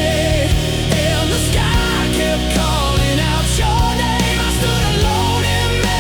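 Rock ballad music without vocals: a lead electric guitar plays a melody of bending, wavering notes over bass and drums with regular cymbal hits.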